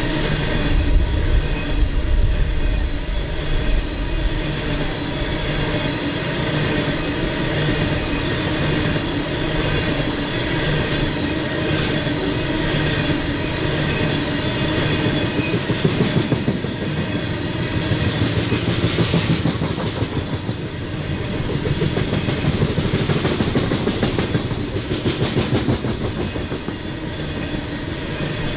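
Freight train cars rolling steadily past, their wheels clicking rhythmically over the rail joints.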